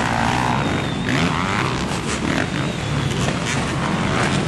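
Off-road motorcycles racing on a motocross track, their engines revving and changing pitch in a dense, continuous mix.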